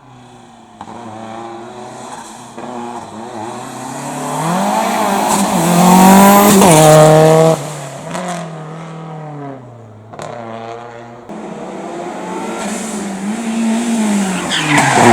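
Race car engine revving up and falling off again and again as it brakes and accelerates through slalom chicanes. It is loudest about six to seven seconds in, where the revs are cut sharply, and the engine climbs loud again near the end.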